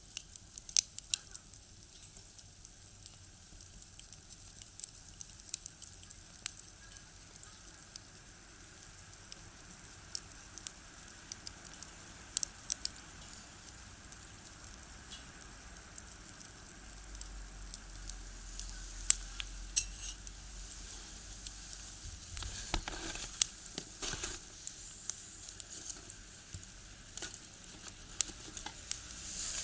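Firewood crackling in a small box stove: irregular sharp pops and snaps over a faint steady hiss. About halfway through, a low rumble swells for several seconds.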